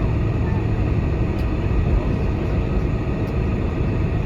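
Steady low cabin rumble of a Boeing 747-400's four engines at taxi power, heard from inside the economy cabin. Two faint clicks come through, about a second and a half in and again past three seconds.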